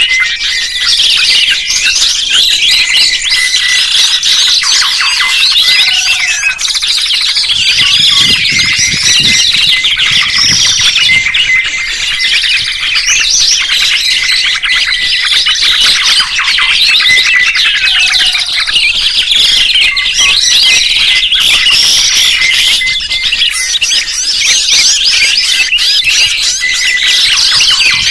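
Songbirds chirping loudly: a dense, unbroken mix of overlapping chirps, trills and quick whistled sweeps, with a repeated high thin note running under it.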